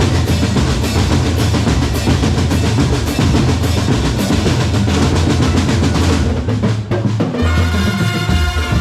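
A percussion corps plays a fast, dense drum roll on snare and bass drums. About seven seconds in the drumming breaks off and sustained pitched melody notes come in.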